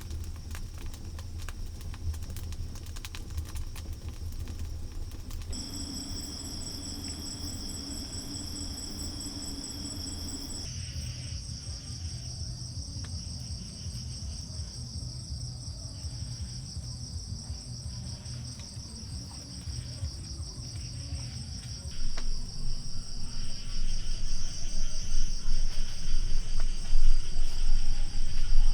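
Crickets trilling in a steady, high, continuous ring that sets in about five seconds in, over a low rumble that grows louder near the end.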